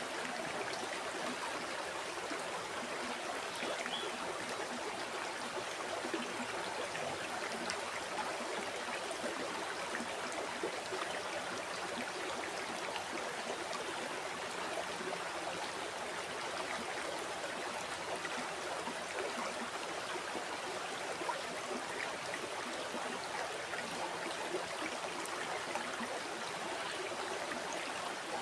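Flowing river water: a steady rushing and babbling with small trickles and splashes.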